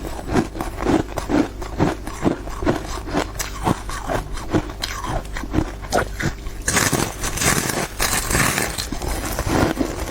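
Ice being bitten and chewed, with crisp crunches about two a second. About two-thirds of the way in the crunching turns into a denser, hissier crackle for a second or so.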